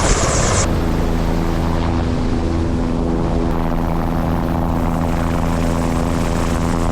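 Helicopter running steadily, its turbine and rotor giving an even drone with a fast regular beat. A bright hiss sits over it for the first half second or so.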